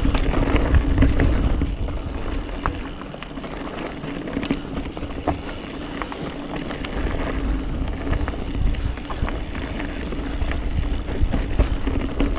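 Mountain bike descending a dirt trail: wind buffeting the action-camera microphone, tyres rolling over the ground and the bike rattling with scattered clicks and knocks over bumps. The low wind rumble eases for a few seconds about two seconds in, then builds again.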